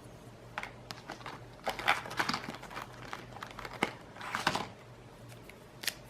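Irregular crinkling rustles and a few light clicks from paper and drawing supplies being handled on a desk.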